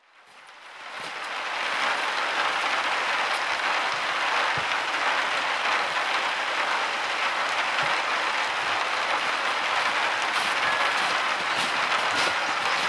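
Steady rainfall, with scattered louder drops ticking through the hiss. It fades in over the first couple of seconds.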